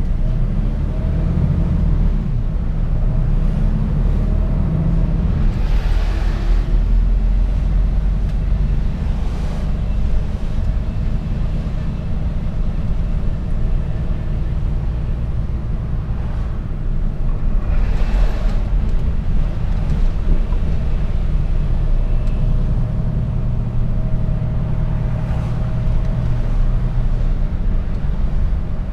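Mercedes-Benz Actros truck on the move, its diesel engine and road noise a steady low rumble. A few brief louder swells of rushing noise come and go, the clearest about a third and two thirds of the way in.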